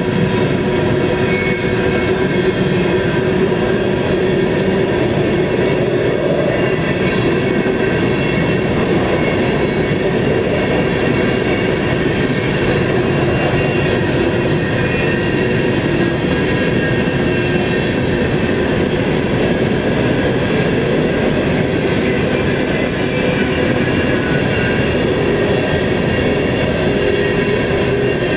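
Empty steel coal hopper cars of a freight train rolling past at steady speed, their wheels running on the rail in a constant rumble. Several thin, high ringing tones hold steady over the rumble.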